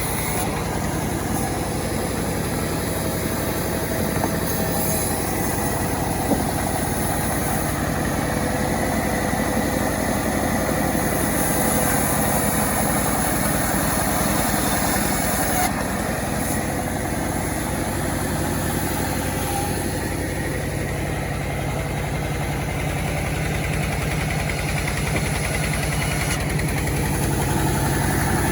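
Engine of a self-assembled chainsaw running steadily, its level barely changing.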